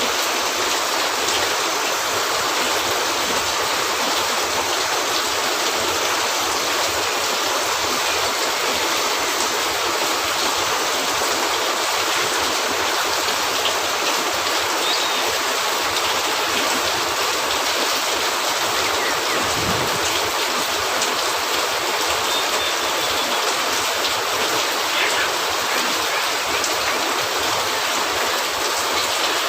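Steady rain falling on a cabin roof: a dense, even hiss that holds the same level throughout, with a few faint ticks.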